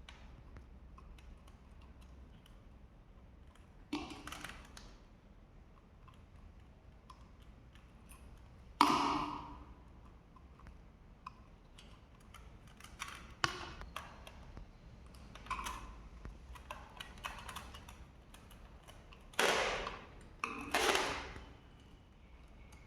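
Scattered clicks and sharp knocks from handling hard objects, such as tools and fan parts being picked up and set down. Three louder knocks with a brief ring stand out, one about nine seconds in and a pair near the end, over a low steady hum.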